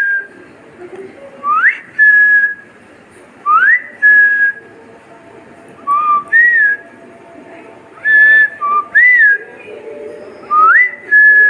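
Loud whistling, a quick upward slide into a short held note, repeated about every two seconds, like a whistled call to a pet bird.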